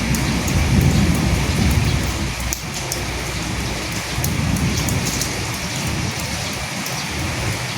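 Steady rain falling on a surface, with single drops ticking through it. A low rumble swells under the rain twice, in the first couple of seconds and again about four to five seconds in.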